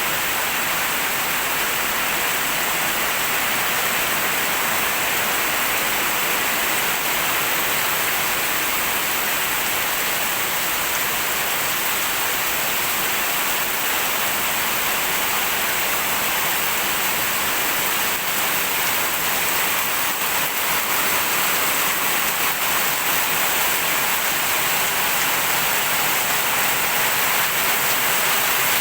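Rain falling steadily: a dense, even hiss that holds unchanged throughout.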